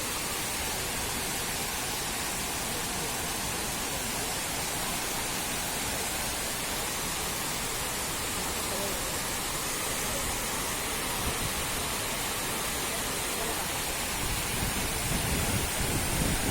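Waterfall rushing, a steady even hiss of falling water with no breaks; a low rumble comes in near the end.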